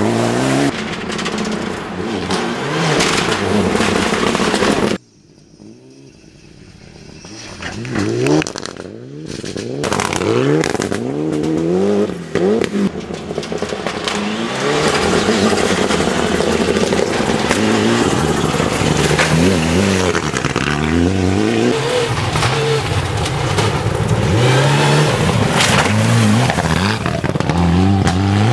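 Rally cars on a gravel stage accelerating hard, engine pitch climbing and dropping back again and again as they shift up through the gears. The sound cuts off suddenly about five seconds in, comes back quieter and builds up again, then runs loud to the end.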